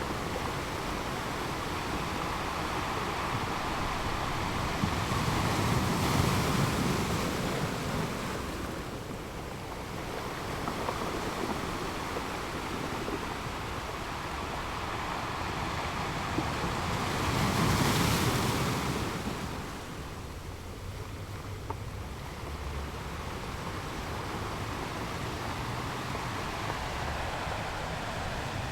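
Ocean waves rolling in and washing on the shore, a continuous rush of surf that swells twice, about six seconds in and again near eighteen seconds, then settles.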